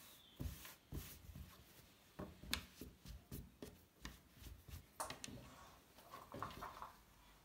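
Faint, irregular household handling noises: a scatter of light knocks, taps and clicks with soft low thumps, and a brief rubbing sound near the end.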